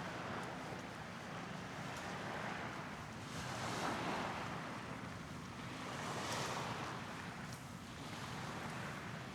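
Outdoor waterfront ambience: a steady rushing noise over a low hum, swelling twice, a few seconds in and again near two-thirds of the way through.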